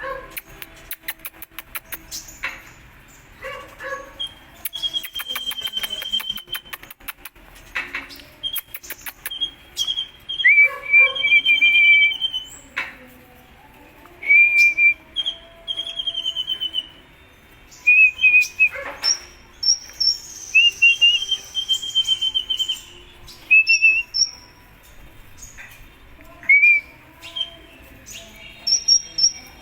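A sunbird, the 'kolibri ninja' of Indonesian bird keepers, singing: short, high, whistled phrases and trills repeated every second or two, mixed with bursts of fast ticking chatter.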